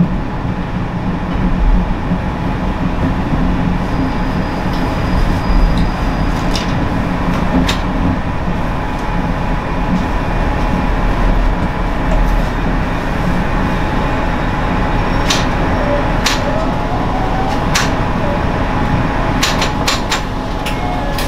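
Steady running noise heard inside an Ise Railway diesel railcar: a low engine-and-wheel rumble with scattered sharp clicks and rattles.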